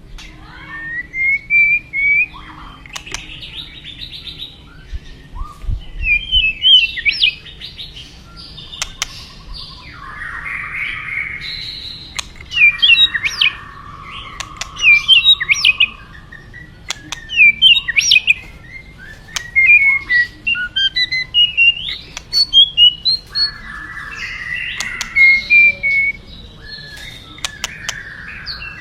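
White-rumped shama (murai batu) singing: a long, varied run of loud whistled phrases and fast chattering notes with quick pitch sweeps, broken by short pauses.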